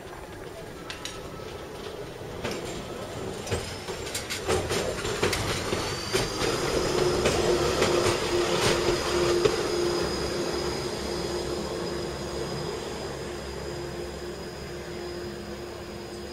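Gornergratbahn electric rack-railway train passing close by, going downhill, its wheels clicking over the rails. A steady whine sets in about halfway, and the sound is loudest about eight seconds in before fading.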